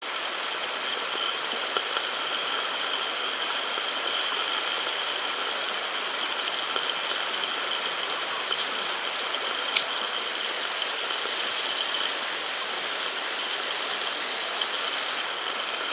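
Steady sizzling hiss of food frying in a hot pan over a campfire, with a single sharp tick about ten seconds in.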